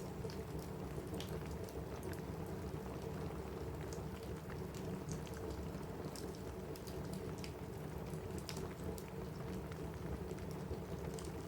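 Steady rain falling on a cabin roof, an even hiss with a deeper low rumble, dotted with scattered sharp ticks throughout.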